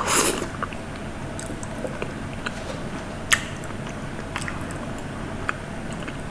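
Close-miked eating: chewing with a few short, sharp clicks, after a brief rustling burst at the start.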